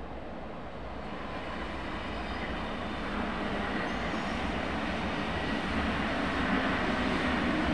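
A regional multiple-unit passenger train approaching and running past on the far tracks, its running noise growing steadily louder.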